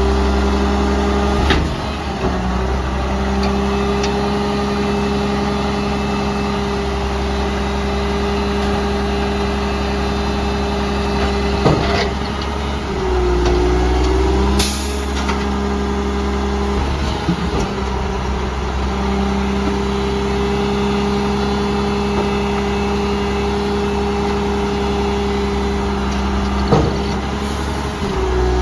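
Garbage truck engine running steadily, its pitch sagging briefly twice as if under load, with scattered knocks and clanks and one short hiss of air about halfway through.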